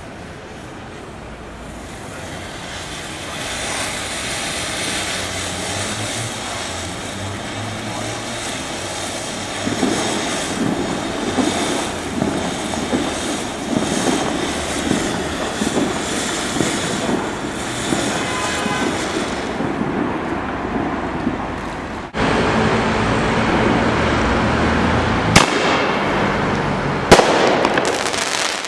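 Ground fountain firework hissing and crackling as it sprays sparks, building up over the first several seconds into dense crackle. About three quarters of the way through, louder aerial fireworks take over, with two sharp bangs.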